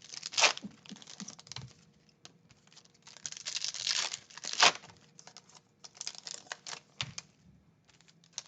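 Trading card packs being opened and handled by hand: wrappers crinkling and tearing and cards clicking against each other, in irregular bursts with short pauses.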